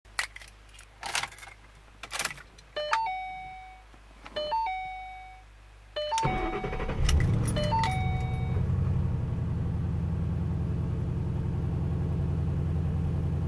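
A few sharp clicks and knocks, then a car's two-note warning chime sounds four times while the key is in. About six seconds in, a Ford Mustang GT's Coyote 5.0 V8 starts and settles into a steady idle.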